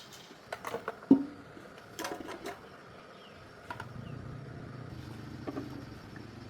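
A few sharp clicks and knocks, the loudest about a second in, followed from about four seconds in by a low steady hum.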